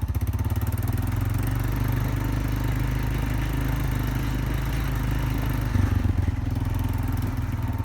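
Four-wheeler (ATV) engine running steadily while riding, with a brief louder surge about six seconds in.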